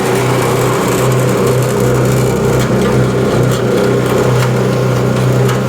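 Mixing machine with newly designed blades running steadily under power, its drive giving a constant hum, with light irregular clicking on top.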